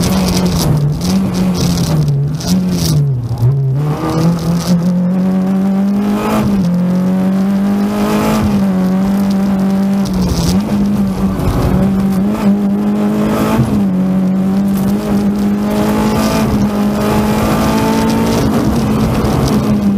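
Renault Clio 16V rally car's four-cylinder engine heard from inside the cabin, running hard at speed and climbing in pitch again and again, broken by short dips about a second in, around three seconds in and near ten seconds in as the driver lifts off between gears.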